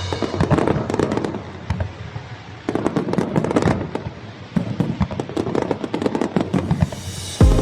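Fireworks going off: clusters of rapid crackling with scattered bangs, and a deep boom near the end.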